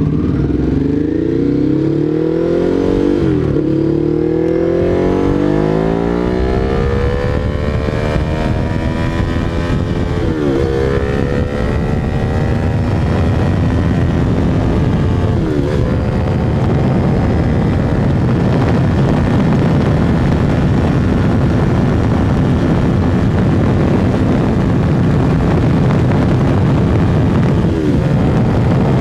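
Ducati Hypermotard 821's L-twin engine, breathing through an SC-Project CRT exhaust, pulling hard at full throttle in a top-speed run. Its pitch climbs in each gear, with upshifts about three seconds in, around ten and fifteen seconds, and near the end. A rushing noise builds as the speed rises.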